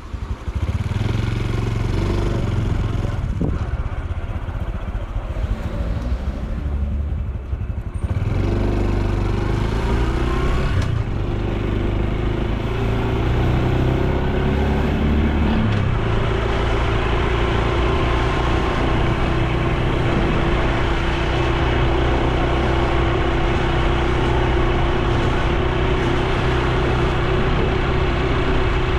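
Honda Super Cub C125's 125 cc single-cylinder four-stroke engine running on the road, its pitch stepping as the bike changes speed and gear a few times in the first half, then holding a steady note.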